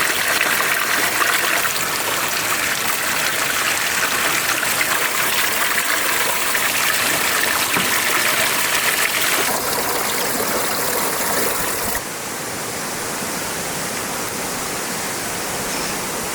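Fast mountain stream rushing over rocks, a steady rush of water; the sound changes abruptly about ten and twelve seconds in, dropping in brightness and loudness.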